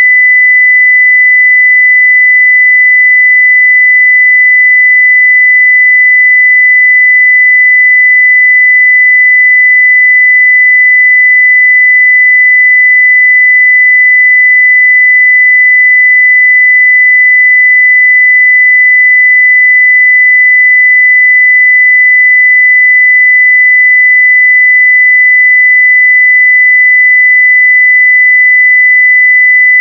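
Steady 2 kHz sine-wave test tone at full scale, one pure unbroken pitch that does not change.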